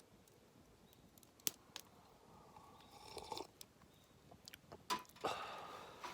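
Camp gear being handled while packing up: two sharp clicks about a second and a half in, then short bursts of clattering and rustling.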